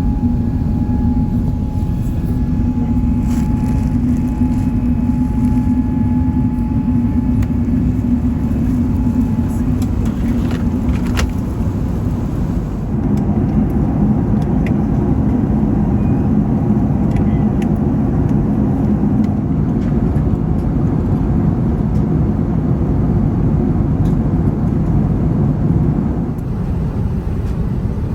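Steady cabin noise of an Airbus A380 in flight: a constant rush of engine and airflow noise with a low hum. Its tone shifts about halfway through and again near the end.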